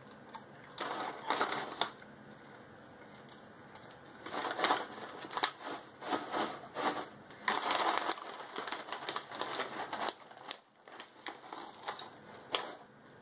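Crunchy caramel corn being chewed in irregular bursts of crunching, mixed with the crinkle of the snack bag as a hand reaches into it.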